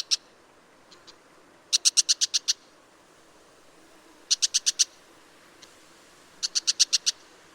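Brown shrike's harsh chattering call: quick bursts of about eight rapid, sharp notes, each burst lasting under a second. Three bursts come a couple of seconds apart.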